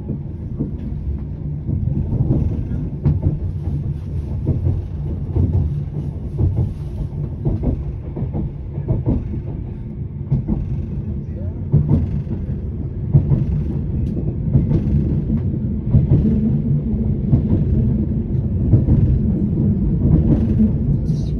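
Train running along the track, heard from inside the carriage: a steady low rumble with scattered knocks from the wheels on the rails.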